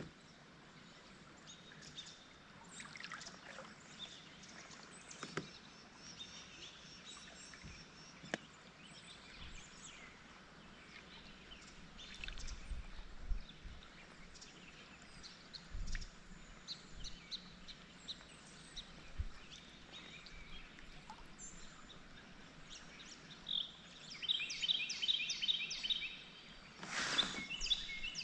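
Birds calling on and off, with a quick run of repeated chirps about three-quarters of the way through, and a short rushing noise near the end.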